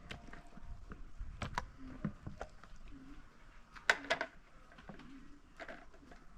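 Scattered sharp clicks and knocks, with a loud cluster of them about four seconds in.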